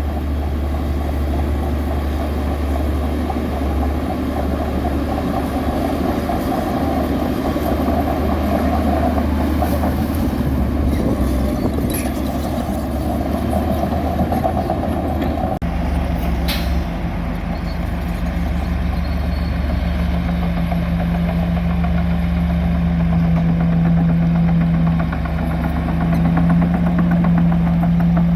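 Heavy earthmoving machinery running, with a diesel engine droning steadily. About sixteen seconds in, the sound changes abruptly and a steadier, higher hum carries on.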